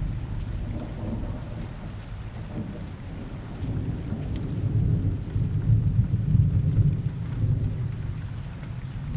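Thunderstorm ambience: a low rolling thunder rumble that eases off, swells again about halfway through and then fades, over a faint steady hiss of rain.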